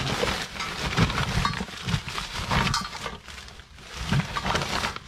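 Junk being handled and shifted in a rubbish pile: irregular knocks, clatter and rustling.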